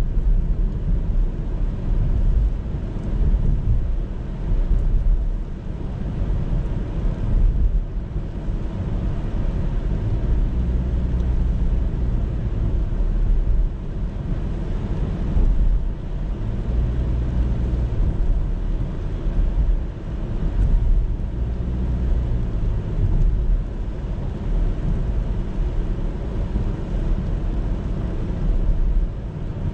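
Steady low rumble of a car driving, engine and road noise heard from on board, with a faint engine hum coming and going in the middle stretch.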